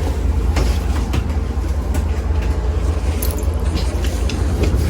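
Steady low rumble of a moving vehicle heard from inside, such as a bus or train, with scattered small clicks and rattles.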